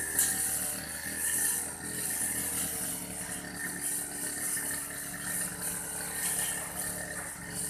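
Old Aldo brush cutter's engine running steadily while cutting grass. A high hiss swells and fades about once a second as the cutting head sweeps back and forth.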